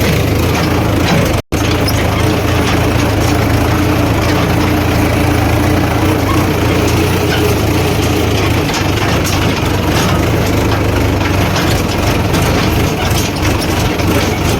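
Heavy diesel engines of a backhoe loader and tractors running steadily under load, a deep hum with scattered knocks and clatter in the later part. The sound cuts out completely for a split second about a second and a half in.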